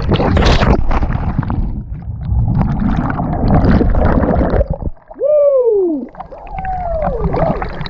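Lake water splashing and sloshing close to a GoPro, with a sharp splash about half a second in. Near the end a person lets out two sliding whoops that fall in pitch.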